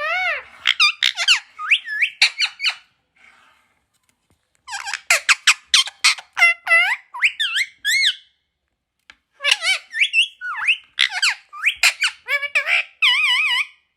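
Pet parrot calling in runs of short, high squeaks and chirps, in three bursts with short pauses about three and eight seconds in.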